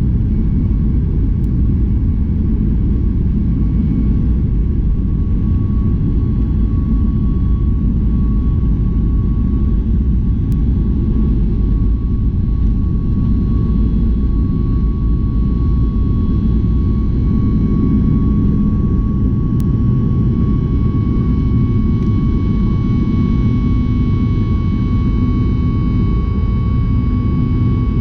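Cabin noise of a Boeing 737 MAX 8-200 with its CFM LEAP-1B jet engines running: a steady, loud low rumble with a steady whine over it, and further higher whining tones coming in over the last few seconds.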